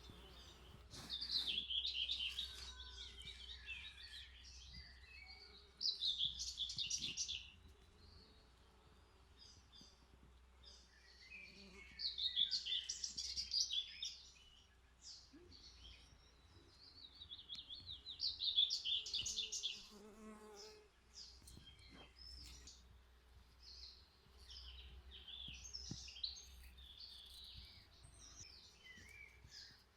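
Songbird singing short, rapid trilled phrases every few seconds, with a bee buzzing past about two-thirds of the way through.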